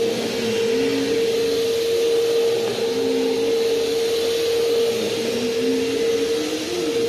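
Bissell CleanView Helix upright vacuum cleaner running: a steady motor whine over the rush of air, with a lower tone that drifts up and down.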